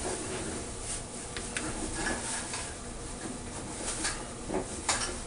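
Scattered light clicks and knocks of plumbing parts and tools being handled, a few sharper ones about two seconds in and near the end.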